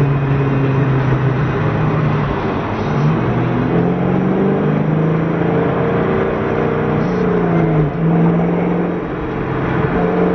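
Car engine running, its pitch gliding up about three seconds in and then stepping up and down.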